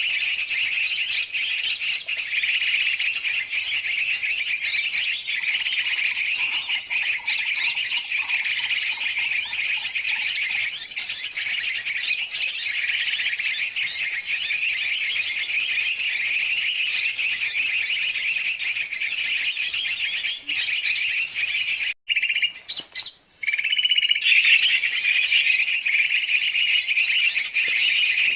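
Dense, noisy chorus of many large and small birds chirping at once: a bird-trapping lure recording meant to draw in yellow-vented bulbuls. It cuts out abruptly for about a second and a half about two-thirds of the way through, then resumes.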